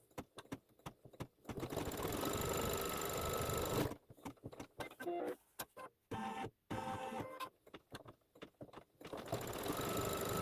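Embroidery machine stitching a fabric tackdown. It runs steadily at speed for a couple of seconds, then goes through a stretch of separate short strokes and pauses, and runs steadily again near the end.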